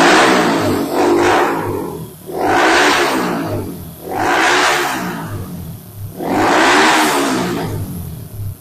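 Single-cylinder air-cooled motorcycle engine revved up and down about four times, each rise and fall lasting around two seconds. The carburettor is badly out of tune, and the engine is firing through a capacitor bank added to the spark plug lead, which lets it take throttle without dying.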